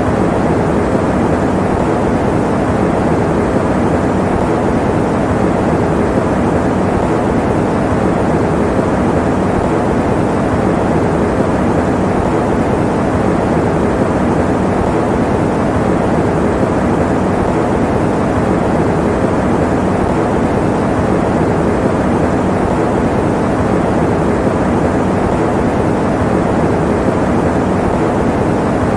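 Electric fan running steadily: an even, low rushing of air that does not change.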